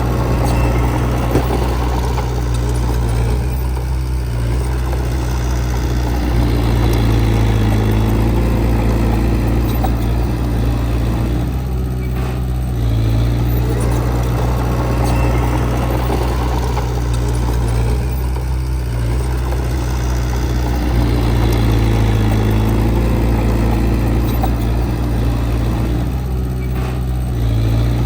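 Diesel engine of heavy earthmoving machinery running continuously. Its note shifts and eases in a repeating cycle about every seven or eight seconds as the load comes and goes.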